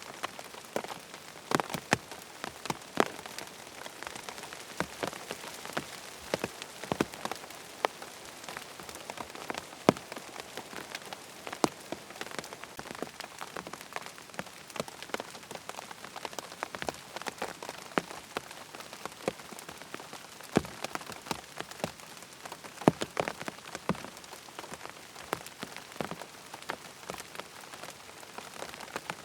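Steady rain pattering on tent fabric, a constant hiss with many irregular sharp drop impacts, some heavier drops standing out.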